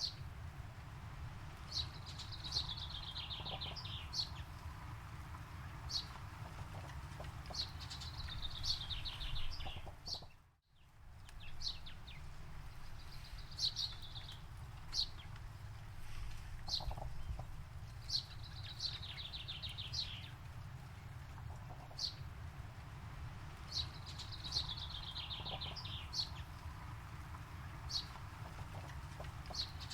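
Forest birdsong: a bird repeats a quick descending run of high notes every few seconds, with single short chirps in between, over a steady low rumble. The sound briefly cuts out about ten seconds in.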